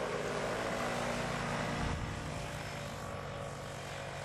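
Paramotor engine and propeller running steadily.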